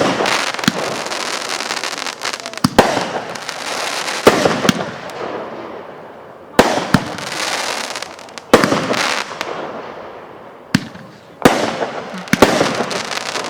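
Consumer fireworks going off in an uneven series of sharp bangs, about a dozen, each followed by a crackling tail that fades over a second or two.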